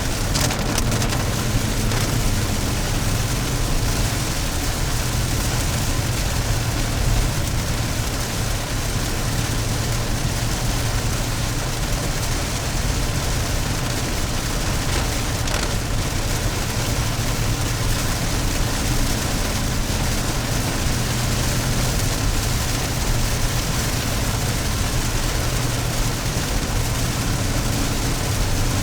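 Steady engine and road noise inside a moving car in the rain: a low hum under an even hiss of wet tyres and rain on the car.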